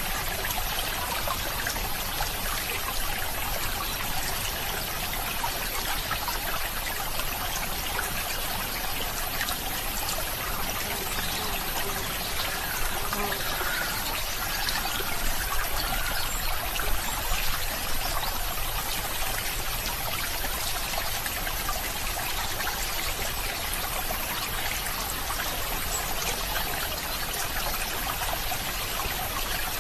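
Water trickling and burbling in a small stream: a steady rush of flowing water with many small splashes, a little louder for a moment about halfway through.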